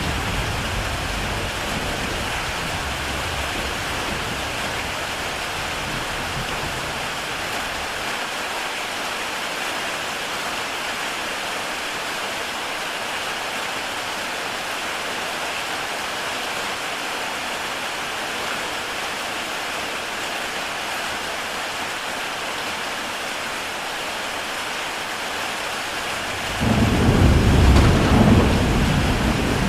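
Heavy rain falling on a tile roof, a steady hiss. Low rumbling thunder fades out over the first few seconds, and a louder rumble of thunder comes in suddenly near the end.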